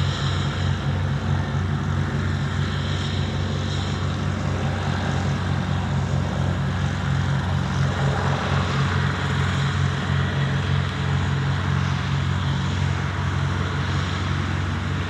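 Cessna 152's four-cylinder Lycoming engine and propeller running steadily at low taxi power, a constant low drone with a fast even pulse.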